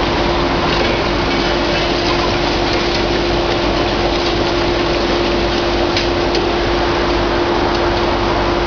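Heavy hydraulic excavator running steadily, its engine and hydraulics holding one constant whine, with a few faint light clicks.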